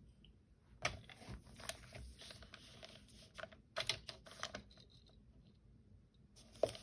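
Paper trimmer cutting through a brown paper bag: faint, irregular clicks and short scraping strokes as the blade is worked along the paper. The blade is already dull.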